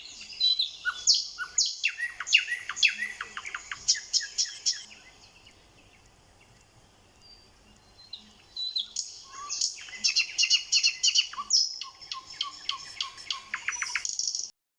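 A songbird singing: two long runs of quick, high chirps and trills, with a pause of about three seconds between them.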